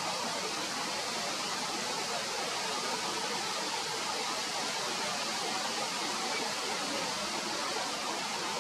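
A steady, even hiss of noise with no distinct bird calls standing out.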